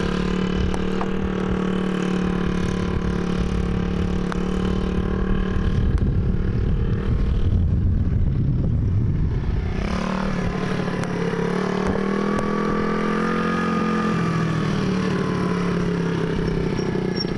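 Small dirt bike engine running at a fairly steady pitch while being ridden, with a gentle rise and fall in revs a few seconds before the end. A stretch of low rumbling noise covers the middle of the clip, from about a third of the way in to just past halfway.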